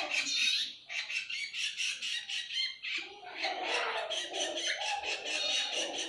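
Hand-reared fledgling birds giving harsh, rapidly repeated begging calls in near-continuous rasping trains, at feeding time.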